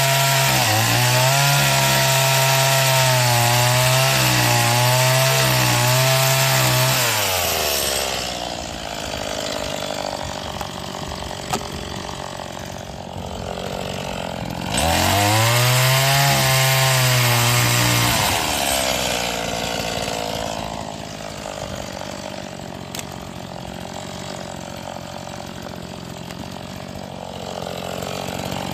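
Stihl MS 180 two-stroke chainsaw running at high revs cutting firewood, then dropping to idle after about seven seconds. About halfway through it revs up and cuts again for a few seconds, falls back to idle, and revs up once more at the very end.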